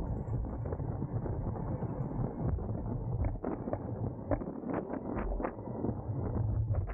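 Wind buffeting a bicycle-mounted camera's microphone during a road race, a steady low rumble. A quick series of sharp clicks comes in about halfway through.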